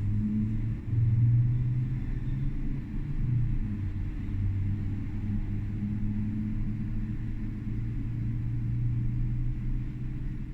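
Tram running along the line: a steady low rumble with a hum that shifts a little in pitch.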